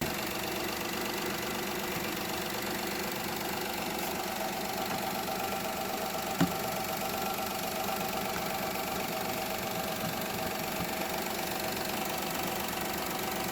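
Perodua Viva Elite's engine idling steadily, with one sharp click about halfway through.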